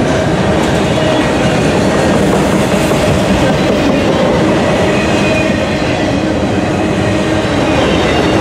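Freight train of autorack cars rolling past: a loud, steady rumble and rattle of steel wheels on the rails.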